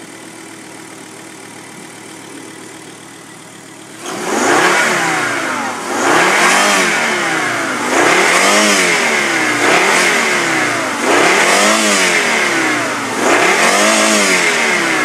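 Volvo S70's turbocharged inline five-cylinder engine idling steadily, then revved again and again from about four seconds in. Each blip rises in pitch and falls back, roughly every two seconds.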